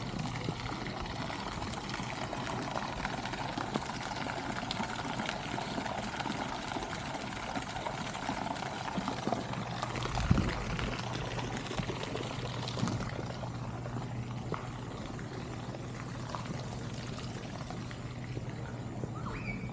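Water pouring and trickling steadily. It thins out about two-thirds of the way through, with a brief low thump about ten seconds in.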